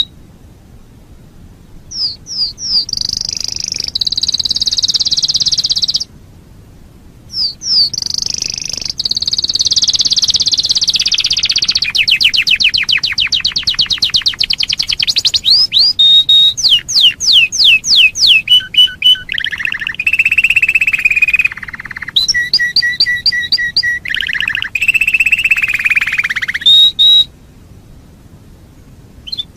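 Domestic canary singing: long phrases of rapid trills and quick sweeping whistled notes, broken by pauses of one to two seconds.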